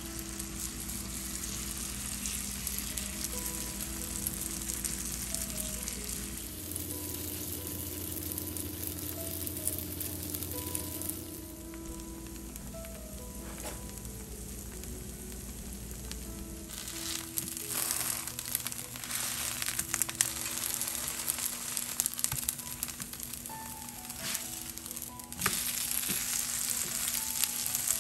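Scallion pancake batter frying in hot oil in a nonstick pan, a steady sizzle. Sharp crackles and pops grow more frequent and louder about two-thirds of the way through.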